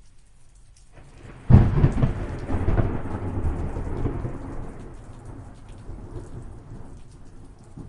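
Steady rain with a thunderclap: a low rumble builds about a second in, breaks into a sharp loud clap half a second later, then rolls on and slowly fades over the next five seconds.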